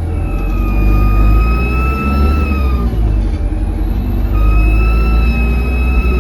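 Alexander Dennis Enviro200 bus's diesel engine pulling under load, heard from inside the bus: a low rumble with a whistling whine on top that rises slightly, breaks off about 3 seconds in and comes back a second later. The uploader puts this turbo whistle down to a turbo leak.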